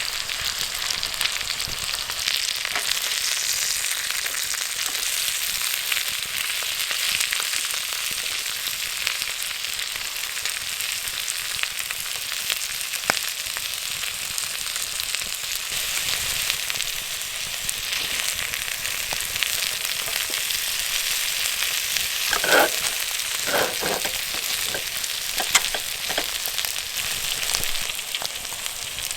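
Beef pepper rice, made with plenty of butter, sizzling steadily in a pan over a campfire. A few brief sharper sounds of stirring come about three-quarters of the way in.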